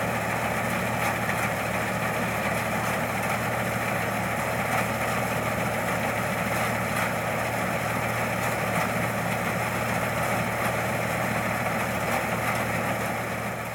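Rice combine harvester's engine and machinery running steadily at an even pitch.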